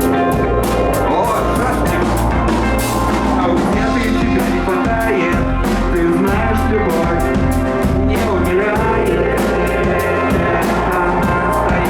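Rock band playing live and loud, the drum kit keeping a steady beat under bass and guitar.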